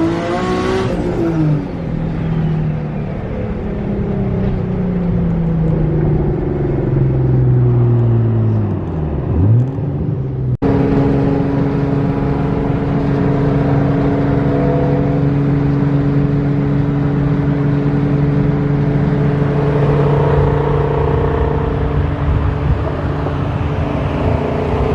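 Car engines revving: the engine note climbs in the first second, then falls away and drops sharply just before ten seconds. After an abrupt cut, an engine runs at a steady pitch for the rest.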